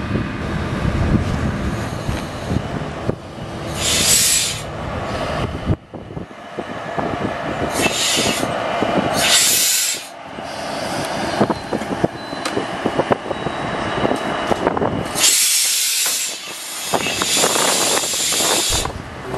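Diesel railcar running at a standstill, with repeated loud hisses of compressed air from its brakes or coupling gear, the longest lasting about three seconds near the end.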